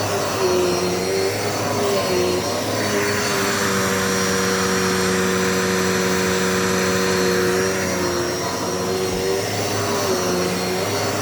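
Dirt Devil multi-surface vacuum cleaner running steadily. Its motor whine wavers slightly in pitch over a rush of air, and the air noise grows stronger for a few seconds in the middle.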